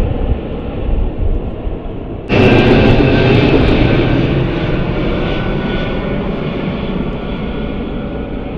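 Jet airliner engines close by: a low rumble, then, from about two seconds in, a sudden loud roar with a high whine that fades slowly.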